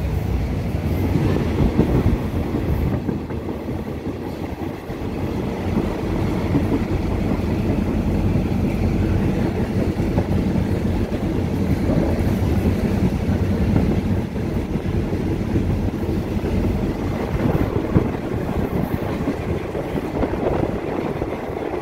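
Diesel passenger train running along the track: a steady rumble of wheels on rails, heard from an open window of the carriage.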